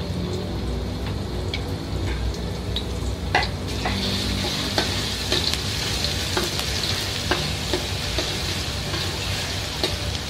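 Pounded garlic frying in hot oil in a metal wok, sizzling steadily while a metal spatula stirs it, scraping and clicking against the pan. The sizzle grows louder about four seconds in.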